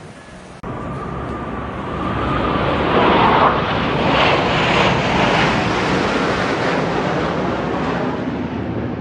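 Military jet flying past, its engine noise starting abruptly, swelling to its loudest about three to five seconds in, then easing off slowly.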